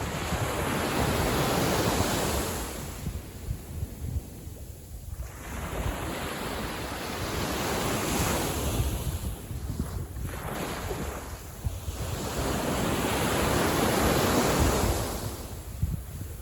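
Small sea waves washing in on the beach, three slow surges that swell and fade, with wind buffeting the microphone as a steady low rumble.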